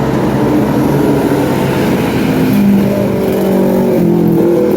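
Motor vehicle engine running close by, its pitch shifting a couple of times partway through.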